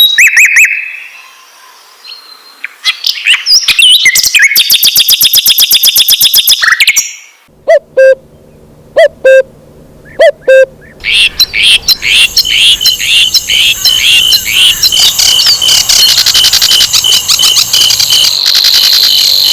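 Sikatan londo flycatcher song: a fast high trill, a short pause broken by a few sharp single notes, then dense rapid chirping that keeps going.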